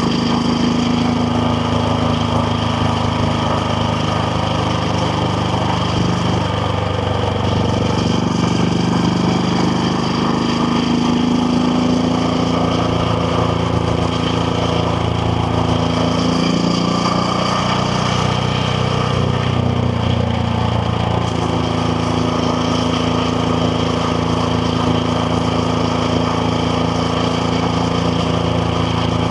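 KTM Duke 690R single-cylinder engine running steadily under way. Its note falls and climbs again about three times.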